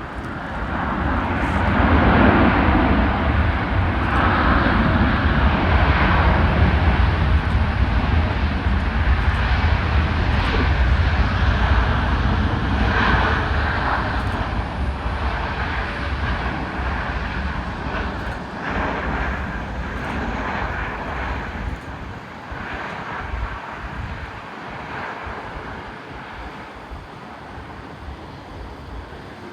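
Jet airliner engines: a loud, steady rumble that builds in the first couple of seconds, then slowly fades away.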